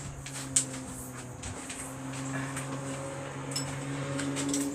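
A steady low mechanical hum, like an appliance motor running, with scattered light clicks and taps from handling parts.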